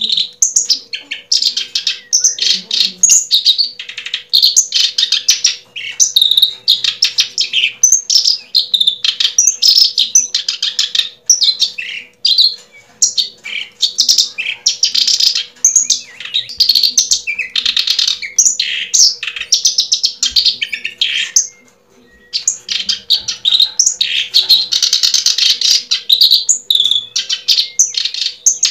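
Birds chirping and trilling loudly and almost without a break, in quick high-pitched notes, with one short pause about three quarters of the way through. A faint steady hum runs underneath.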